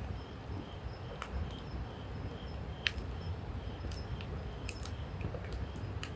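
Wood campfire burning, crackling with a handful of sharp pops and snaps over a low hiss.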